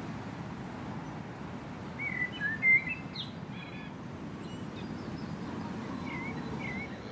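Small birds chirping over steady outdoor background noise: a quick cluster of short calls about two seconds in, the loudest sound here, and two more short chirps near the end.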